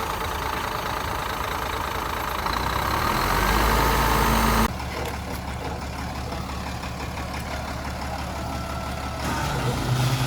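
Heavy diesel earthmoving machinery running. The engine sound builds and grows louder for about two seconds, then cuts off sharply about halfway through to a quieter, steady running, which gets louder again near the end.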